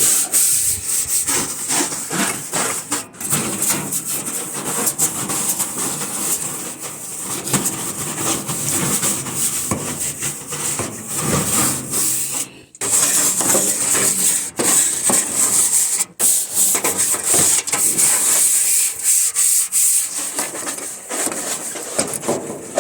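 Scrubbing a cleaner-sprayed surface by hand in quick back-and-forth strokes, a steady rough rubbing sound with a couple of brief pauses in the middle.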